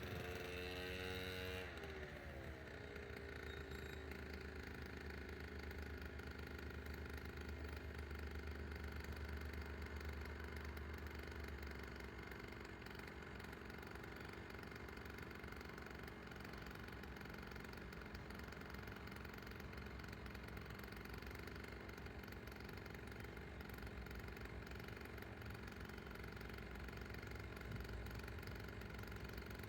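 Diesel locomotive 2044-024 running steadily, a low hum with a steady tone over it, with a falling pitch sweep in the first two seconds as something passes.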